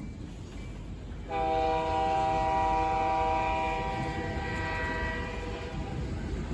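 Locomotive air horn sounding one long blast: several notes sounding together as a chord, starting suddenly about a second in and fading out after about four seconds, over the low rumble of the train.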